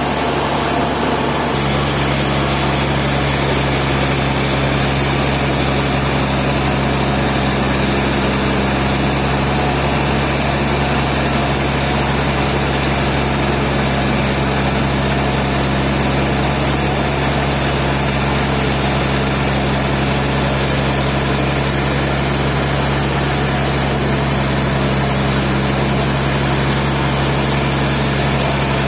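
Sawmill machinery running steadily, an engine-like hum over a constant rushing noise, with a small shift in the hum about a second and a half in.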